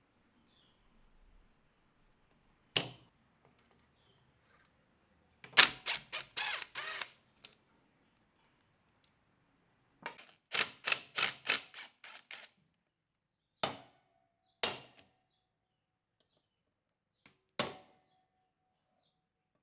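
Sharp metal-on-metal taps and clinks: a single knock, then two quick runs of rapid tapping, then a few separate clinks, some with a short metallic ring.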